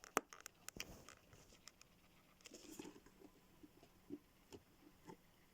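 Faint scattered clicks and small knocks of a plastic bird clock being handled while its button is searched for; otherwise near silence.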